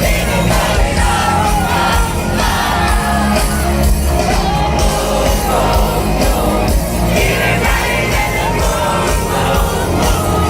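Live pop concert heard from within an arena audience: a female lead singer over a band with heavy bass, and the crowd shouting and singing along.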